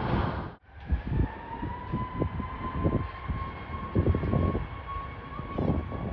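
Jet airliner engine noise that cuts off abruptly about half a second in. It gives way to a steady high-pitched jet engine whine that rises slightly at first and then holds, with wind gusting on the microphone.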